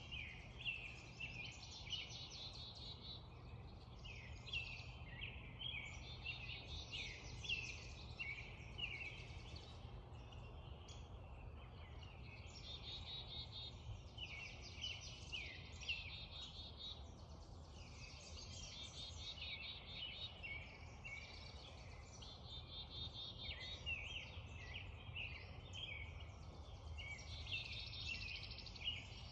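Spring dawn chorus: several songbirds singing at once, a steady overlap of short chirps, sweeping notes and rapid trills, over a faint, steady low background rumble.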